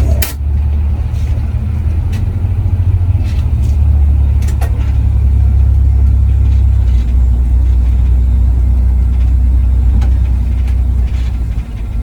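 Charter coach heard from inside the cabin: a steady deep rumble of engine and road, with a sharp click right at the start and a few fainter clicks and rattles.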